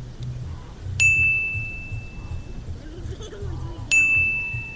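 Two bright metallic dings about three seconds apart, each struck sharply and ringing out for over a second, over a steady low rumble.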